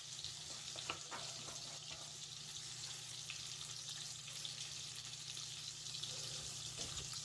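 Fish frying in oil in an open pan: a steady sizzle, with a low steady hum underneath and a couple of light clicks about a second in.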